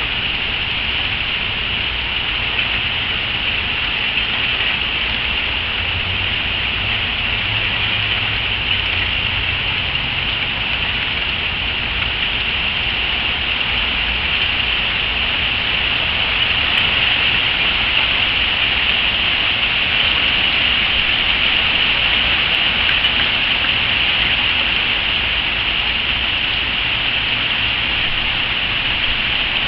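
Steady rain falling in a spring rainstorm, growing a little louder about halfway through.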